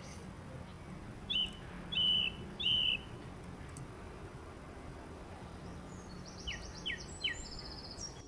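Birds calling over a steady background hiss. About a second in come three short chirps, roughly 0.7 s apart. Near the end come three quick downward-sliding chirps with a higher trill.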